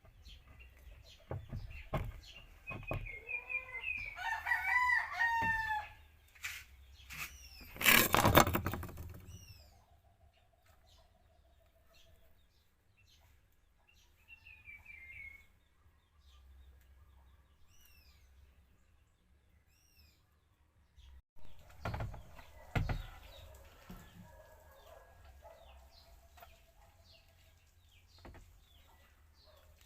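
A rooster crowing once about four seconds in, followed around eight seconds in by a loud, noisy burst lasting over a second. Softer chicken clucks and small bird chirps come and go through the rest.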